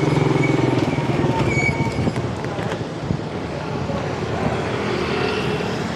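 Road traffic: a motor vehicle's engine running close by for the first two seconds, with a thin high whine over it, then a steady hum of passing traffic.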